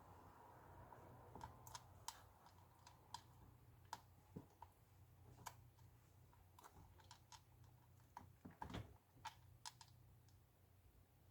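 Faint, irregular small clicks and taps over a low steady hum, from the iPad, its new screen and the connector being handled on the bench while the screen connector is fitted.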